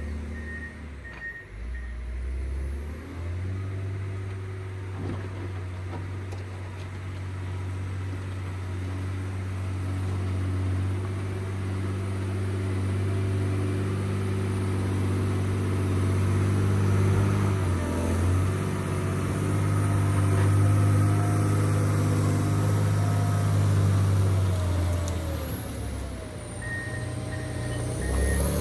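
John Deere 670 GP motor grader's diesel engine running steadily under load, rising in speed a few seconds in and dipping briefly twice. Its backup alarm beeps at the start and again near the end as the grader reverses.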